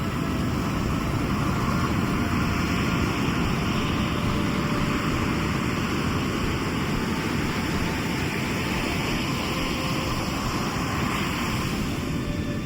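Sea surf: waves breaking and washing up the shore as a steady rushing roar that swells and eases slowly.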